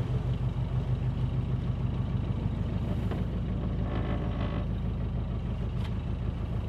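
A narrowboat engine running steadily with an even low beat.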